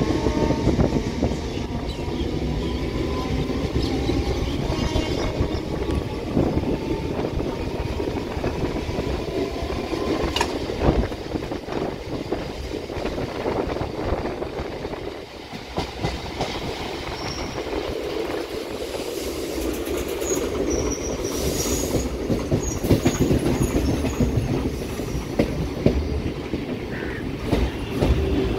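Suburban electric local train running at speed, with its wheels clattering over rail joints and a steady rumble. Brief high wheel squeal comes in about two-thirds of the way through.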